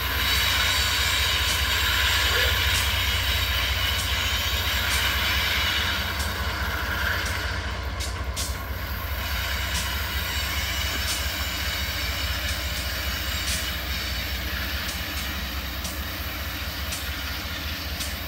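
Diesel freight locomotive engine running with a steady low hum, while a passing freight train's wagons roll by with sharp wheel clicks over rail joints about once a second. The whole sound slowly fades.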